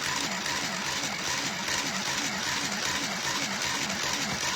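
So Crafty mini sewing machine running and stitching, a steady motor whir with a fast, even rhythm from the needle going up and down. It is now sewing properly with the needle threaded.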